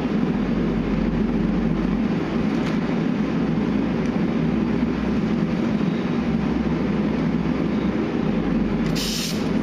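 Steady mechanical rumble and hiss from running shop equipment, with a short sharp hiss near the end.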